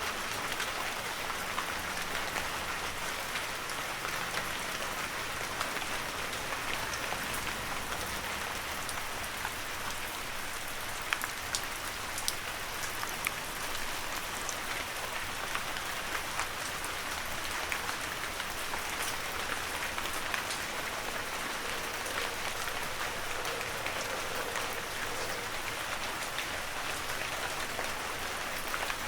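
Heavy rain falling steadily on a forest, a dense even hiss with scattered sharper drop impacts.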